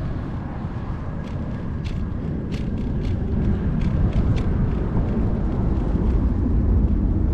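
Wind buffeting the microphone of a moving bike: a low rumble that grows louder toward the end, with a scattered run of light ticks in the first half.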